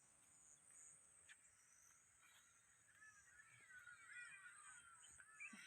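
Faint birds calling in a forest, a run of short falling chirps building over the second half, over a steady high insect drone.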